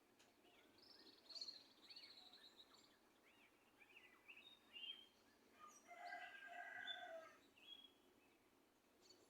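Several small birds singing and chirping faintly, with quick up-and-down whistled notes and a short high trill about a second and a half in. A louder, fuller call with several stacked tones stands out around six to seven seconds in.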